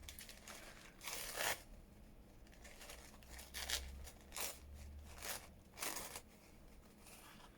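Soft paper tearing and rustling in several short strokes: thin tea-bag paper being torn open and pulled apart.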